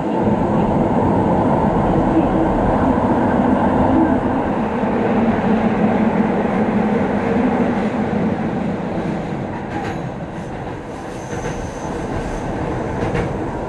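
Keihan 800 series electric train running at speed, heard from inside the cab: a dense rumble of wheels on rail and running gear, echoing in the subway tunnel. The rumble eases somewhat about ten seconds in as the train leaves the tunnel, and a few sharp clicks from the wheels come near the end.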